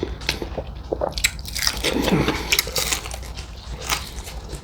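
Close-miked biting and chewing of extra crispy fried chicken: the breaded skin crackles in quick, irregular crunches between wetter chewing sounds.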